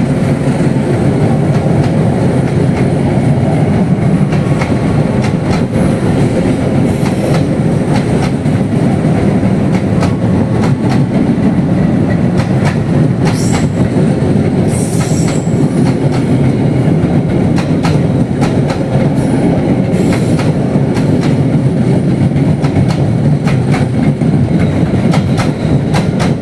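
A locomotive-hauled passenger train rolling past close by: a steady rumble of wheels on rail with a rapid clatter of clicks from the wheels, and two brief high-pitched bursts about halfway through.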